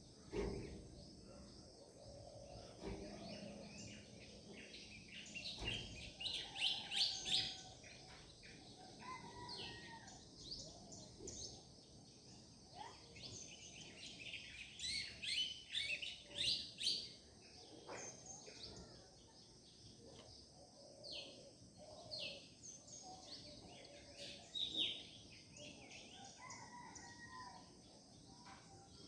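Several songbirds chirping and singing together in a morning chorus: quick runs of high chirps and trills, loudest in two bouts about six seconds in and again around fifteen seconds, over a faint background hush.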